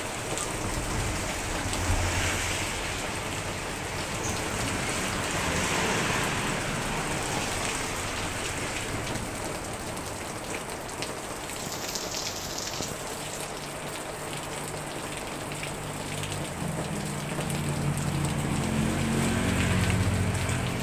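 Heavy typhoon rain pouring down, its noise swelling and easing in waves. A low, steady hum joins in for the last few seconds.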